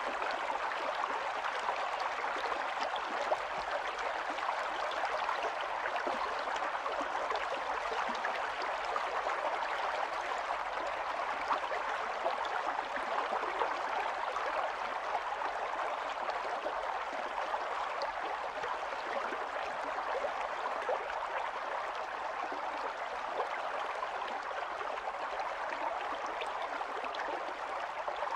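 Running stream: water flowing and gurgling over stones, steady and continuous with fine splashing.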